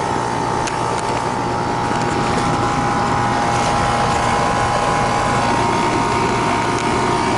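Air-conditioning condensing unit running: a steady drone from the compressor and condenser fan, with a steady whining tone over it.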